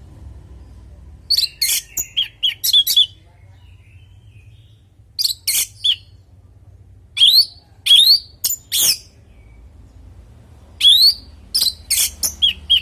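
Male orange-headed thrush singing in four short bursts of rapid, sharp, high notes mixed with rising whistles, a second or two apart.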